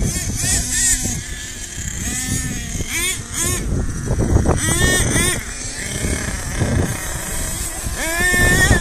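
Small nitro engines of HPI Savage radio-controlled monster trucks revving up and falling back again and again as the trucks drive, the high engine pitch climbing and dropping several times, over a low rumble.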